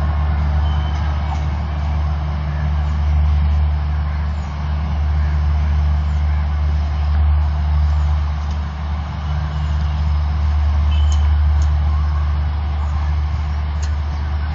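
Steady low rumble of an express train running away down the line.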